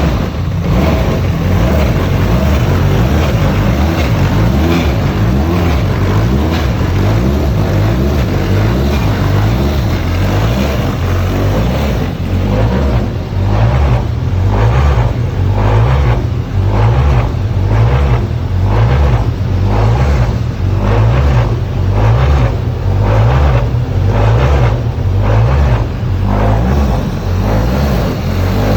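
Formula Renault 2.0 race car's 2.0-litre four-cylinder engine running just after a first-time start, strong and steady at idle. About halfway through it begins to surge in a regular pulse a little more than once a second.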